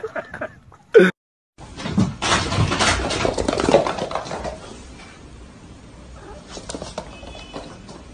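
Animal noises. The sound cuts out abruptly about a second in, then comes back as a loud noisy stretch that fades to a quieter background about halfway through, with a faint short high call near the end.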